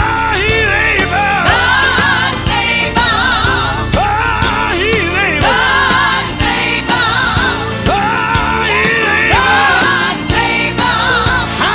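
Live gospel quartet music: voices singing over a band with a steady drum beat.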